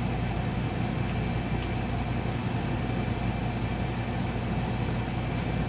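A steady mechanical hum, as of a motor or fan running, with no distinct knocks or clicks.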